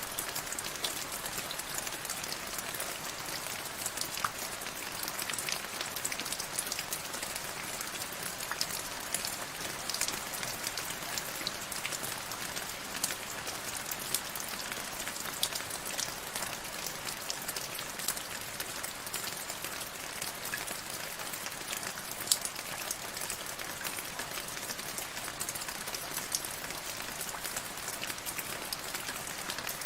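Steady rain, with many individual drops ticking sharply on a surface over an even hiss; one drop strikes a little louder about two-thirds of the way through.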